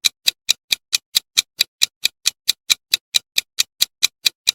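Ticking countdown-timer sound effect: a fast, even clock tick of about four and a half ticks a second.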